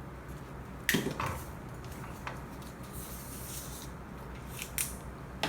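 Scattered light clicks and knocks with a short rustle of small plastic parts and cable being handled, over a low steady hum.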